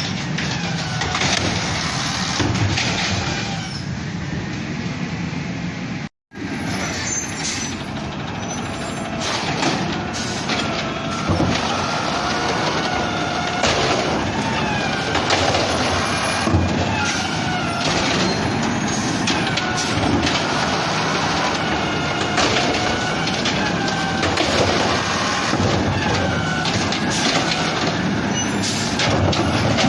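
Garbage truck engine running and revving up and down again and again while it works. The sound drops out for a moment about six seconds in.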